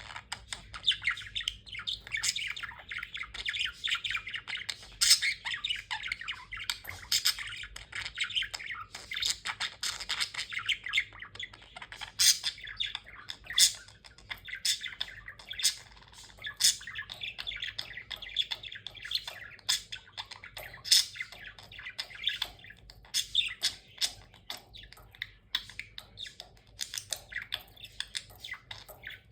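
Budgerigar warbling: a continuous high chatter of chirps, clicks and squawks, with sharper, louder calls every second or two.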